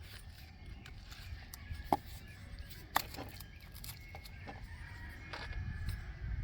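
Small sharp clicks and light knocks of hand-tool work on a chainsaw as the chain-tension screw is turned to take up the chain slack, two louder clicks about two and three seconds in, over a low steady rumble.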